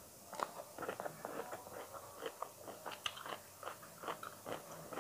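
A person chewing a mouthful of food with crunching, likely bones and crisp skin of fried salted fish, in a quick irregular run of short crunches starting about half a second in.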